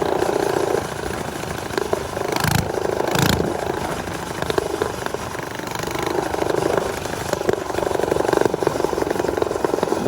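Small motorbike engines running during a ride, their pitch shifting a little, with two short rushes of noise about two and a half and three seconds in.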